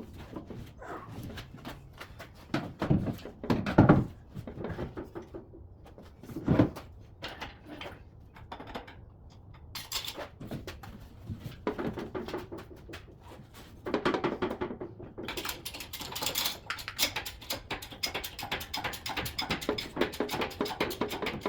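A heavy tool bin and its gear being shifted by hand: two heavy thuds, then a long stretch of clattering, knocking and rattling.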